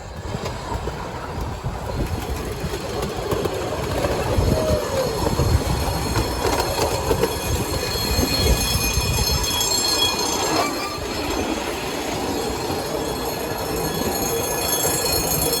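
Miniature railway train running along its track: steady rumble of wheels on rail, with brief squeals from the wheels.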